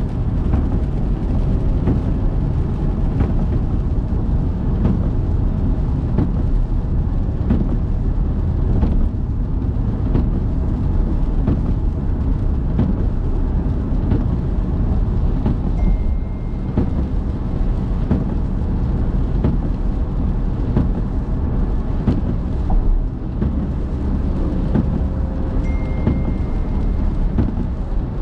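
Car driving in the rain: a steady low road-and-engine rumble mixed with the hiss of rain, with scattered light ticks.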